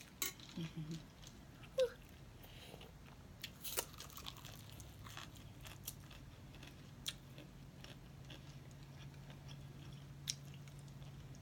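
Close-miked chewing and biting of fried chicken wings, with scattered sharp crunches and mouth clicks. A faint steady low hum sets in about halfway through.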